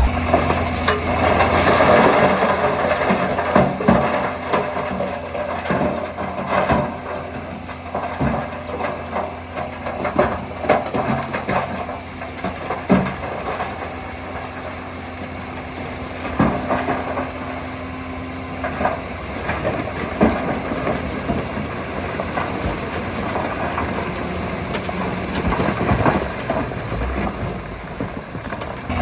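Heavy machinery diesel engine running steadily, with irregular sharp clanks and knocks scattered through it. It is loudest in the first few seconds.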